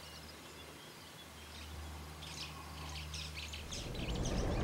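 Birds chirping in short, quick calls over a low steady hum; near the end a low rumble grows louder.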